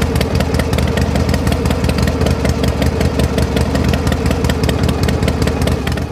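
Small motor of a homemade miniature tractor running steadily, with a fast, even clatter over a steady hum.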